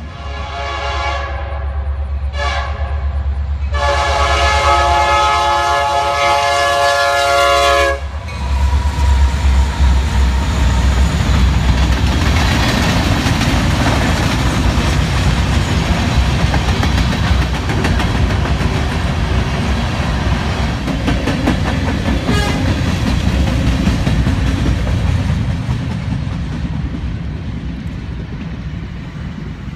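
A freight locomotive's horn sounds three blasts, two short and then one long for about four seconds. About eight seconds in, a long freight train of hopper cars rolls past with a steady clickety-clack of wheels over the rail joints and a low rumble, slowly fading toward the end.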